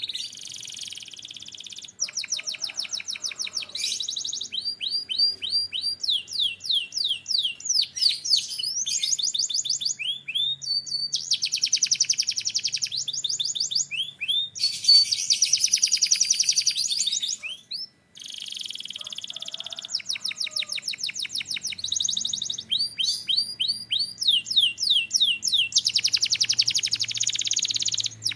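Domestic canary singing: a long run of high-pitched rolling trills, each a fast series of repeated notes, switching to a new trill every second or two, with a brief break about two-thirds of the way through.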